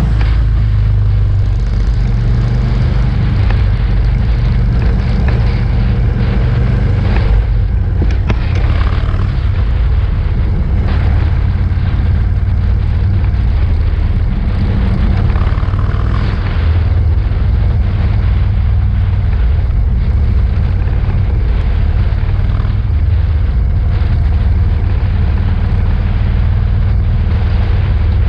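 Many motorcycle engines running together: a loud, steady low rumble.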